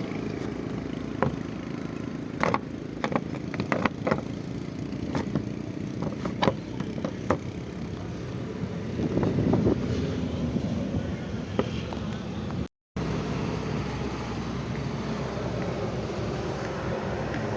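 Steady motor-vehicle rumble and road noise, with scattered sharp clicks and knocks, cut off for an instant about thirteen seconds in.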